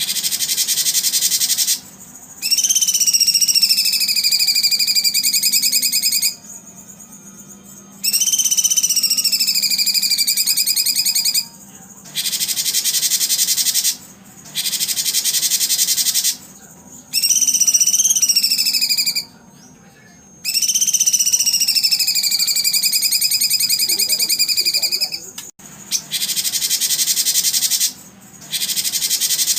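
Looped animal-call recording: blocks of a rapid, pulsing high buzz, each about two seconds, alternating with long whistled calls that slide slowly downward, with short pauses between.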